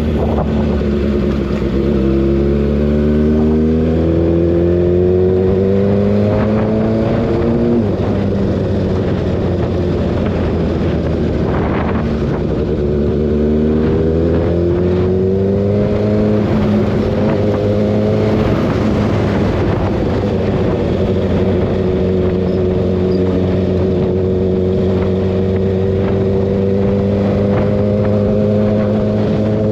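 Kawasaki ZX-6R inline-four engine under way on the highway. Its pitch climbs twice as the bike accelerates, then holds steady at cruise, over steady wind and road noise.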